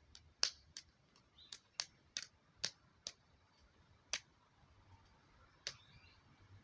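A series of sharp, irregular clicks, about ten over six seconds, the loudest near the start.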